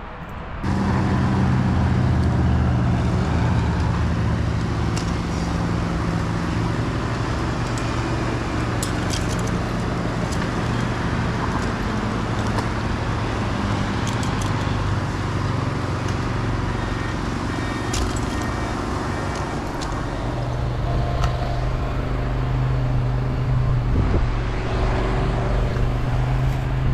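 An engine running steadily at a constant speed, with a few light clicks over it. It comes in about half a second in.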